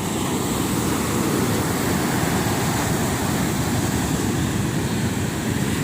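Sea surf breaking and washing onto a sandy beach: a steady, even rush of water, heaviest in the low range, with no single crash standing out.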